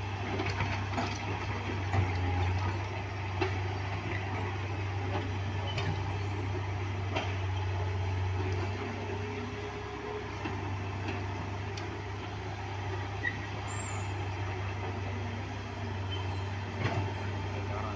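Heavy vehicle engine running steadily with a low hum, with scattered clicks and knocks over it.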